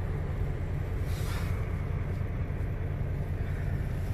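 Steady low rumble of a semi truck's diesel engine running, with a brief faint hiss about a second in.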